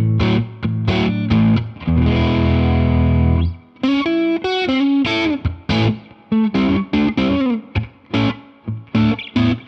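Electric guitar played through a Jeds Peds Bird Strike preamp pedal, a Hudson Broadcast clone, with a gritty, overdriven tone. Short chord stabs give way to one chord held for about a second and a half, then a single-note lead line with bent notes, then more clipped chords.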